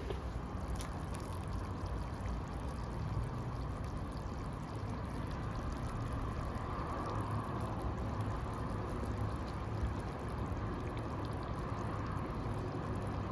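Steady rain, a continuous even wash of falling water.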